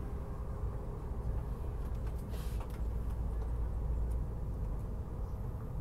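Steady low rumble and hum inside a Chinese high-speed train cabin while the train is running.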